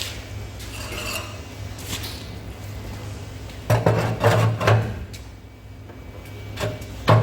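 Metal parts clanking together: a quick run of knocks about four seconds in and another knock near the end, over a steady low hum.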